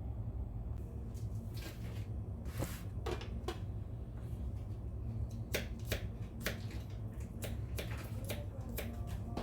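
Kitchen knife cutting vegetables on a cutting board: irregular sharp knocks a second or less apart, over a steady low hum.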